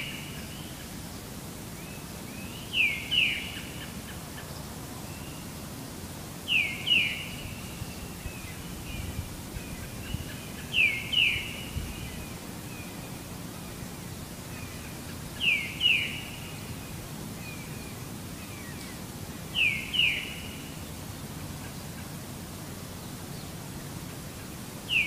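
A bird calling: two short, quick down-slurred whistles in a pair, repeated about every four seconds, over a steady low background rush.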